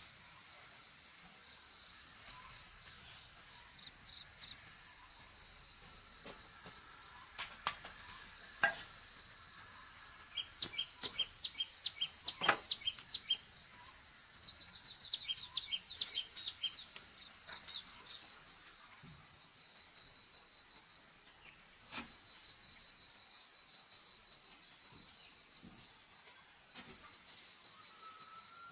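Rural outdoor ambience: insects keep up a steady high-pitched drone throughout. Around the middle a bird calls in quick series of short descending notes, and in the second half a fast pulsing insect trill joins in. A few sharp clicks are scattered through.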